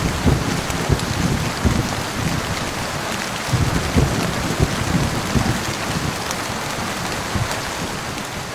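Heavy rain falling steadily, with low, irregular rumbles of thunder that swell in the first second or so and again around the middle.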